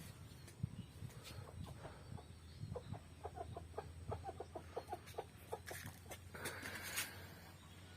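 Aseel chicken clucking: a run of short, quick clucks through the middle, followed by a few brief scratchy rustles.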